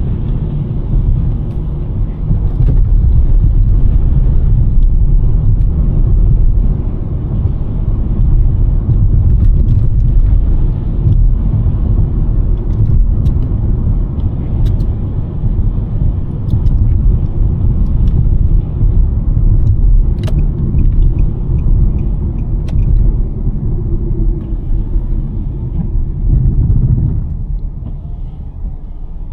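2023 Nissan Sentra driving on a snow-covered road: a steady low rumble of tyre and road noise, with a few faint sharp ticks. The rumble eases near the end as the car slows.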